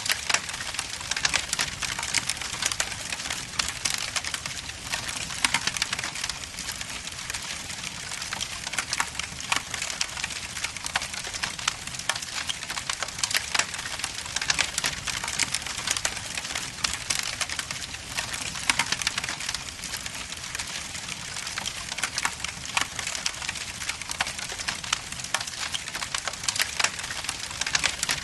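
Wood logs burning in a fireplace, crackling and popping continuously over a soft hiss.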